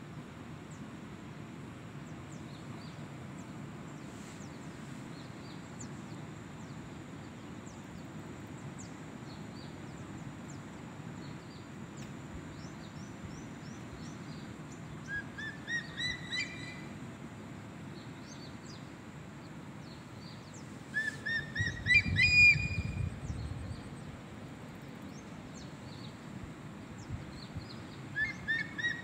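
A bird calling three times, each call a quick run of short notes climbing in pitch, the middle one the loudest. Underneath are a steady low rumble and faint high chirping.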